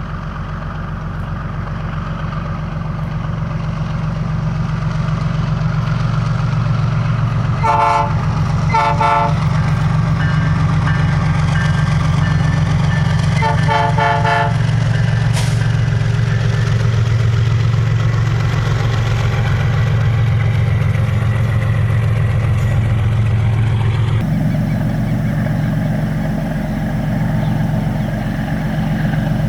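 Diesel freight locomotive running with a steady low engine drone. It sounds short horn blasts, two about eight seconds in and two more around fourteen seconds in.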